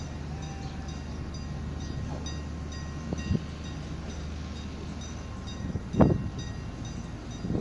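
Diesel locomotive of a passenger train running with a steady low drone. A light thump comes a little past three seconds in, and a louder thump about six seconds in.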